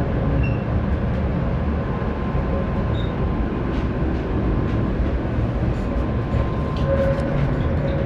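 Tram running, heard from inside the car: a steady low rumble with a faint steady whine and a few light clicks.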